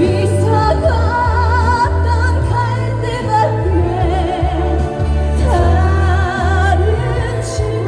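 Female vocalist singing live with a wide vibrato over an amplified backing track with a heavy bass line.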